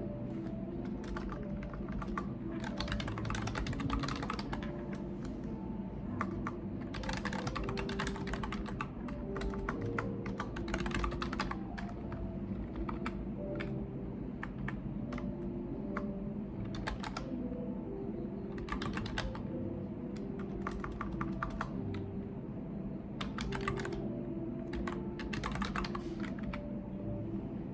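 Computer keyboard typing in bursts of quick keystrokes: several runs of a second or two, separated by short pauses.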